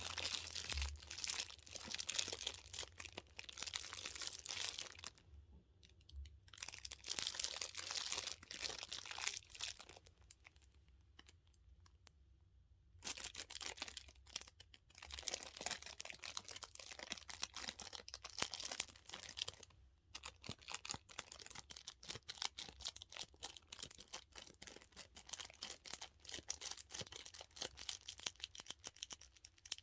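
A dumpling-shaped squishy toy being squeezed and kneaded by hand, making crinkly, crackling handling sounds in bursts with a few short pauses.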